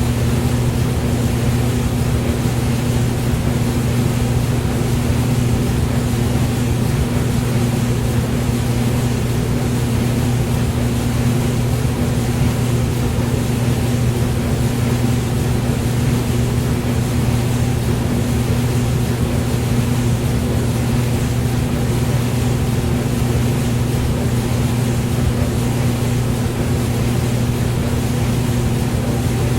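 Hair dryer running steadily: a constant motor hum under an even rush of blown air, unchanging throughout.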